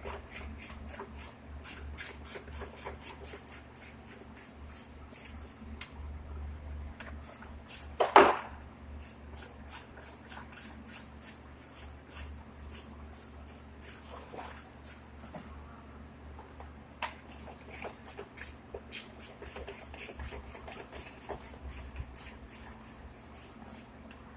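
Rapid rhythmic clicking in runs of about four sharp clicks a second, broken by short pauses, with one louder knock about eight seconds in.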